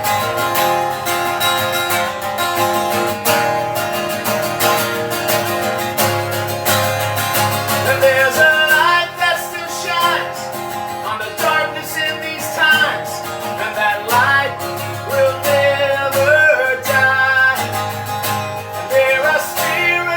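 Acoustic guitar strummed in a steady rhythm during an instrumental break in a folk-country song. From about eight seconds in, a wavering lead melody is played over it.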